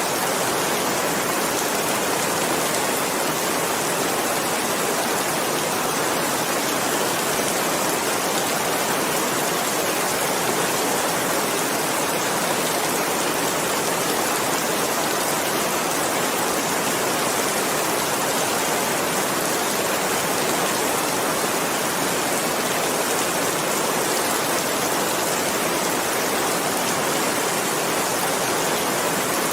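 Steady, dense rainfall: an even hiss of rain without breaks.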